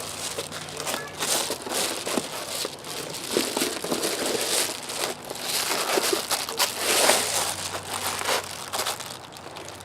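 Foil-faced bubble-wrap insulation crinkling and rustling as it is handled and pressed into place, in uneven rustles.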